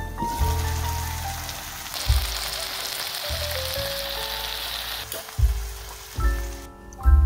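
Eggs, tomatoes and sausage sizzling in a frying pan; the sizzling dies away about five seconds in. Background music with a bass line plays alongside.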